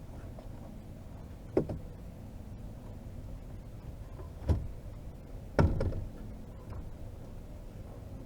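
Three dull knocks in a small boat, about a second and a half in, at four and a half seconds and at five and a half seconds, the last followed by a short rattle.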